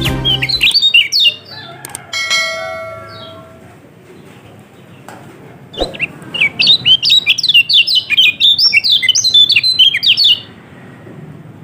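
Kecial kuning, a small white-eye songbird, singing rapid chattering runs of quick, high down-slurred notes: a short burst at the start, then a long fast run from about six seconds that stops abruptly near ten and a half seconds.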